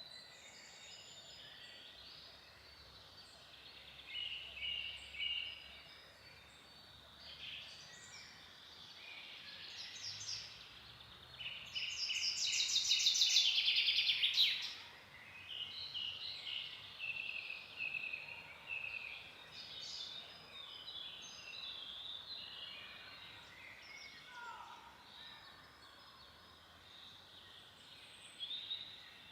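Several forest songbirds singing and calling over a faint background hiss. One loud, rapid trill comes about twelve seconds in and lasts a couple of seconds.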